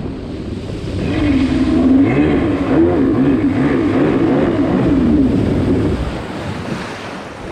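Two-stroke DASA engine in a Kawasaki 650SX stand-up jet ski running hard on the water, its pitch rising and falling again and again as the hull hops over waves. About six seconds in the engine note drops away as the ski comes off the throttle.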